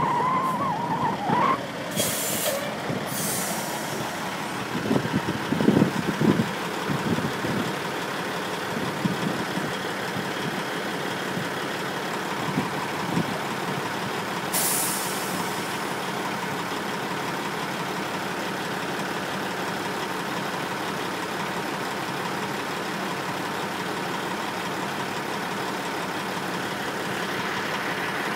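Heavy truck engine running steadily, with short air-brake hisses about two and three seconds in and again about halfway through.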